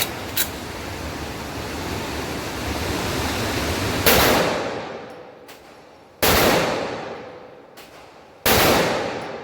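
Three shots from a Desert Eagle .50 AE pistol, about two seconds apart, each sharp crack trailing off in a long echo. A small click comes about half a second in, before the shots.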